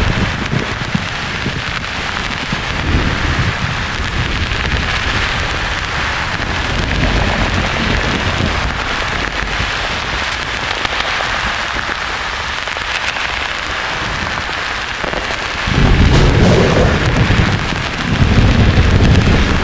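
Thunderstorm: a steady hiss of rain with low rolling thunder. A rumble fades away at the start, and a louder rumble breaks in suddenly about 16 seconds in, followed by another a couple of seconds later.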